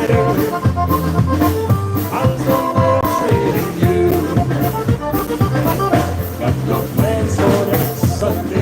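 Live polka band playing a song: bass notes and held melody lines over a steady drum-kit beat.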